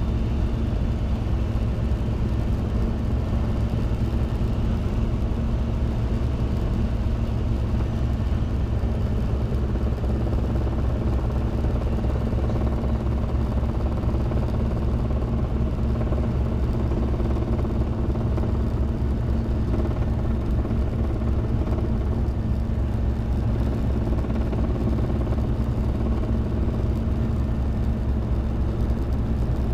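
Robinson R22 helicopter's piston engine and rotor running steadily, a constant low drone with a fast, even flutter from the blades.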